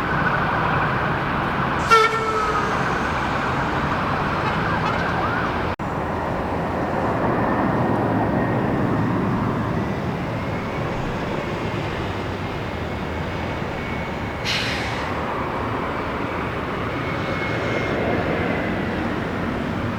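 A siren wailing, rising and falling, over a steady roar of background noise, with a sharp click about two seconds in.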